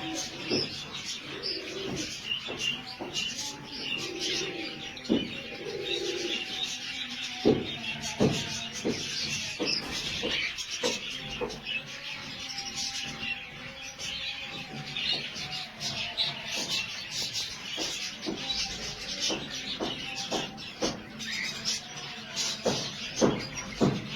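Many birds chirping and calling at once, a dense, continuous chorus of short high calls with scattered clicks and knocks.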